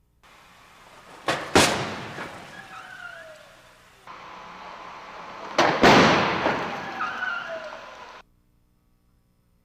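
Car crash-test collision heard twice: a sharp double bang of the impact, then crunching, scraping metal that dies away over a couple of seconds, with a faint screech dropping in pitch.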